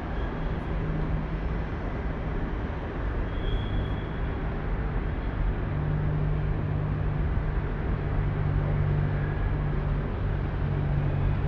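A train standing or moving slowly at the station, giving a steady low hum over a rumble that grows a little louder about halfway through.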